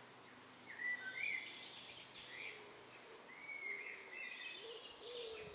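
Birds singing quietly: short chirping phrases about a second in and again around three and a half seconds, with fainter lower calls toward the end, over quiet outdoor background.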